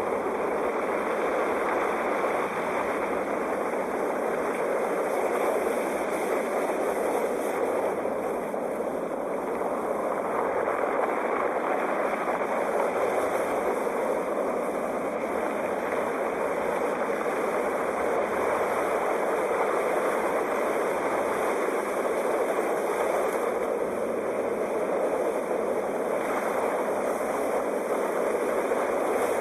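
Sea waves washing on a shore: a steady, continuous rush of surf that swells and eases a little every several seconds.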